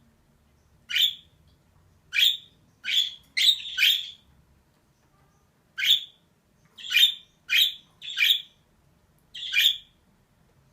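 Female budgerigar calling in short chirps, about ten in a row with a pause of a second and a half near the middle.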